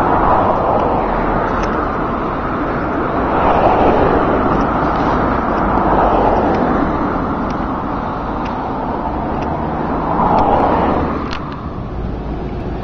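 Road traffic: cars passing one after another on a busy road, the rush of tyres and engines swelling and fading, loudest about three and a half, six and ten and a half seconds in.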